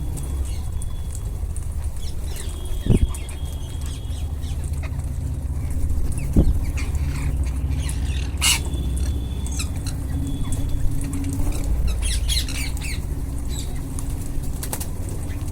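Ringneck parakeets calling: scattered short squawks and a few held whistles, with sharp clicks here and there over a steady low rumble.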